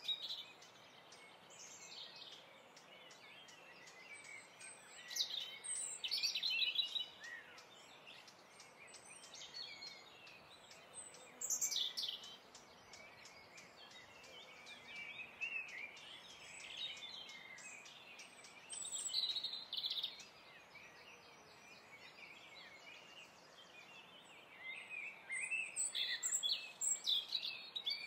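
Small birds chirping and singing in scattered clusters of short, high calls and trills, over a faint steady hiss.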